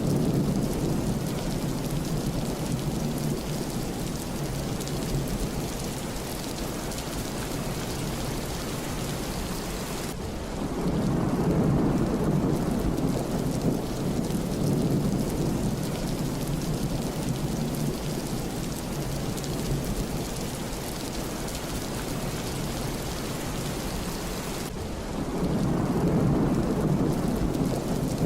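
Heavy rain falling steadily, with low rolling rumbles of thunder that swell about ten seconds in and again near the end.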